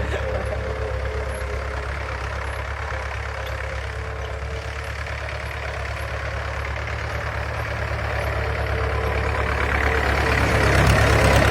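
Tractor engine running steadily with a low rumble, growing louder toward the end.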